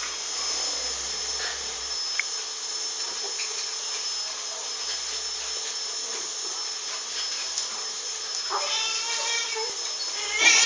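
A pet animal gives two drawn-out, pitched cries near the end, over a steady background hiss.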